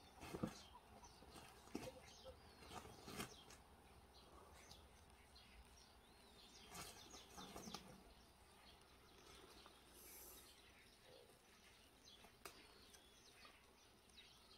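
Near silence, with faint scattered bird chirps and small ticks.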